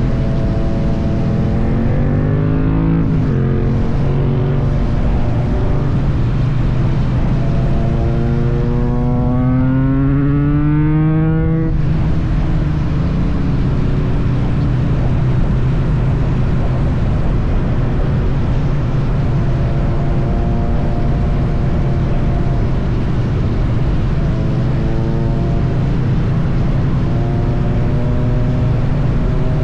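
Triumph Bonneville T100's parallel-twin engine running at road speed under steady wind rush. The revs climb twice, once in the first few seconds and again around ten seconds in, each ending in a sudden drop in pitch as the rider shifts up.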